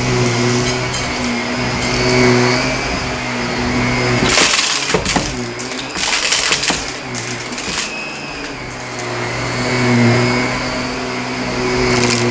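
Shark vacuum cleaner running over carpet, its motor hum swelling and easing every few seconds. About four to seven seconds in, a spell of crunchy crackling as grit and debris are sucked up.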